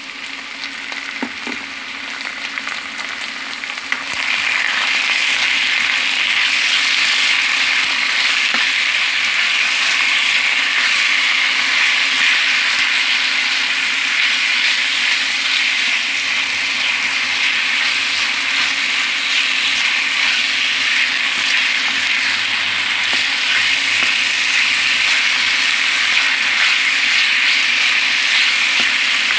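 Food sizzling as it fries in a hot pan, getting louder about four seconds in and then holding steady, with a faint steady low hum beneath.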